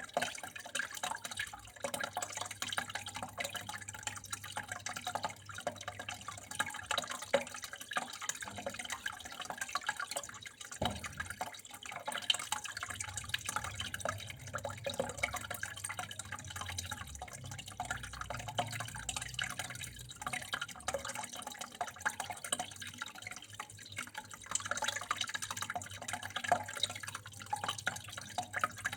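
Water running and trickling at home, a steady dense patter of drips and small splashes. A faint low hum sits under it from about twelve to twenty seconds in.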